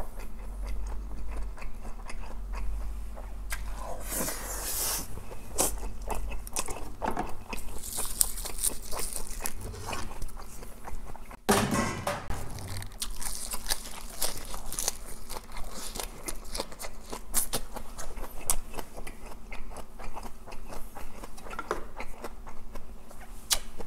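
A person chewing a mouthful of spicy stir-fried pork close to the microphone, with crunching and many small wet mouth clicks.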